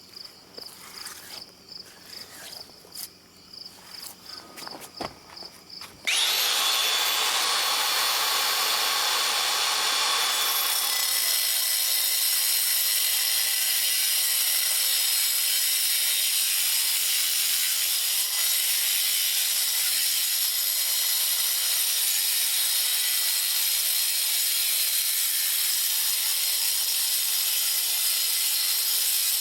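Crickets chirping faintly, then about six seconds in a loud power tool starts up suddenly and runs steadily with a strong high hiss.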